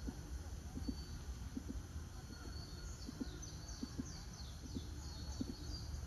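Birds chirping in quick runs of short, high, falling notes over a low steady background rumble. Soft low double pulses repeat about every three-quarters of a second throughout.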